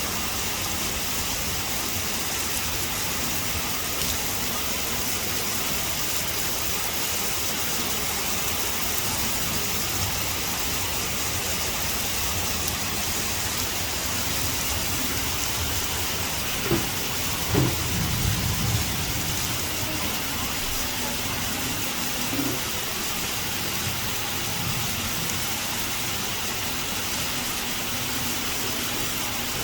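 Heavy rain falling steadily in a constant hiss. A little past halfway, a short cluster of low thumps and rumbling rises briefly over it.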